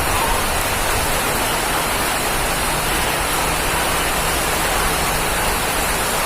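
Steady heavy rain, a constant dense hiss with no single drops standing out.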